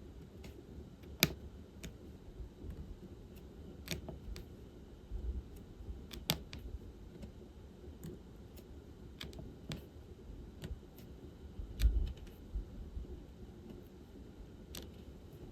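Diamond-painting pen tapping resin drills onto the canvas and picking them from the tray: irregular small clicks and taps, a few of them sharper, with soft low thumps about five and twelve seconds in.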